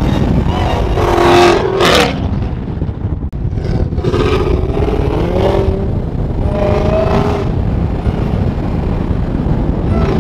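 Supercharged 6.2-litre Hemi V8 of a Redeye Hellcat-swapped Hyundai Genesis Coupe accelerating hard on the road: three pulls, the engine note rising each time over a deep, steady rumble, with a sharp crack at the end of the first pull, about two seconds in.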